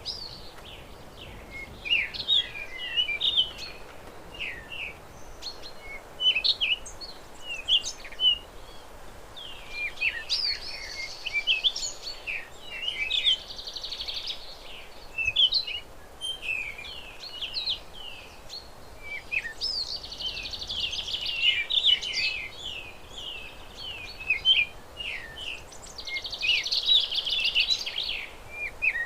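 Several songbirds chirping and singing together: a dense run of short, quick notes, with buzzy trills now and then.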